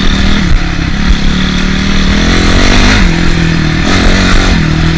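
Honda CRF450R single-cylinder four-stroke dirt bike engine heard from on board while riding a trail, its revs rising and falling with the throttle and dropping off about three seconds in.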